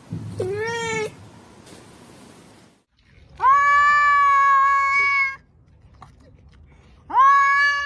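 Domestic cat meowing: a short meow rising in pitch, then two long, drawn-out meows held at a steady pitch, the last beginning near the end.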